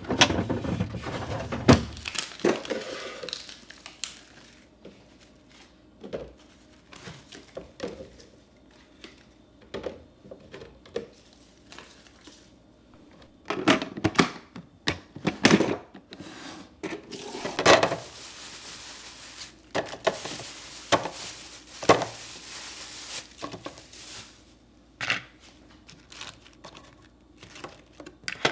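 Kitchen handling noises: irregular knocks and clunks of items being picked up and set down, with rustling and crinkling, busiest in the first two seconds and again for several seconds past the middle.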